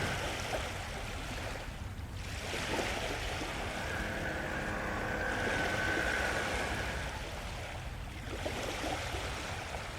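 Wind and sea noise at the shore: a steady rushing hiss over a low rumble, with a faint thin tone holding for a few seconds in the middle.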